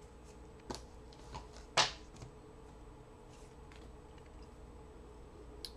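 Trading cards being handled and sorted into piles: a few soft taps and one brief rustle about two seconds in, over a faint steady hum.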